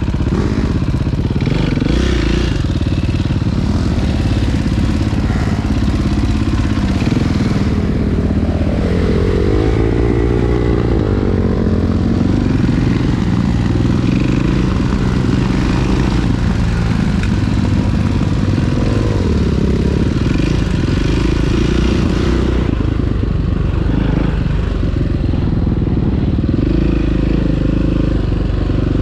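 Dirt bike engine running under way, its pitch rising and falling as the throttle is opened and closed.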